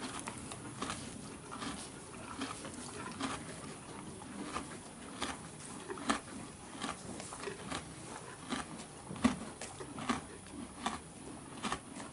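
A horse eating: irregular, crisp crunching as it bites and chews, a crunch every half second to a second, with a few louder ones.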